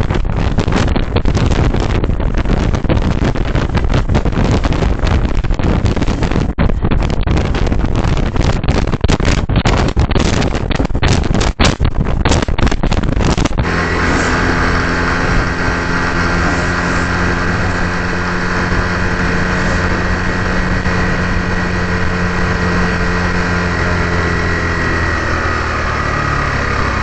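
Strong wind buffeting the microphone on a moving Honda Super Cub 110, gusting and rough for the first half. From about halfway the Super Cub's single-cylinder engine is heard running steadily under a lighter wind hiss, its pitch easing down slightly near the end as the bike slows.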